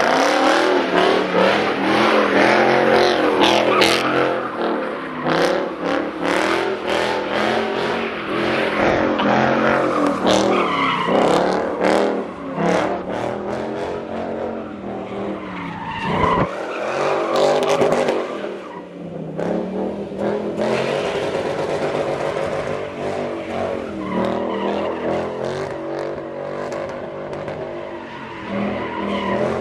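A car engine revving hard, its pitch rising and falling again and again, with tyres squealing and skidding as the car does donuts or burnouts.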